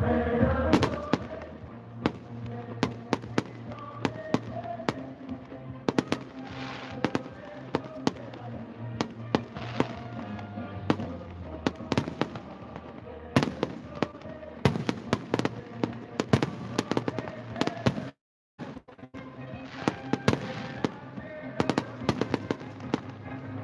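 Fireworks display: many sharp bangs and crackles at irregular intervals, thicker in a cluster past the middle, over music played with the show. The sound cuts out completely for a moment near the end.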